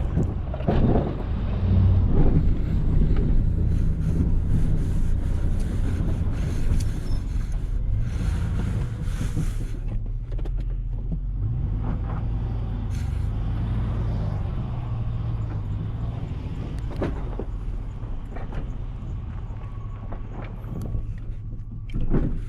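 Engine of a snow-plowing vehicle running steadily at low revs, with scattered knocks and a burst of hiss lasting about two seconds around eight seconds in.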